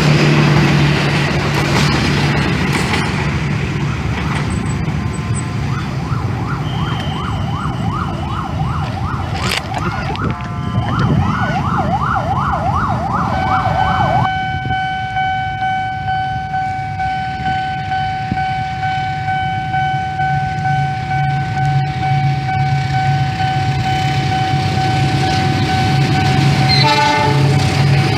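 An electronic siren sounding in quick rising sweeps, about two a second, for several seconds. It then switches to a steady held tone that stops near the end. A rumbling train and a low engine hum run underneath.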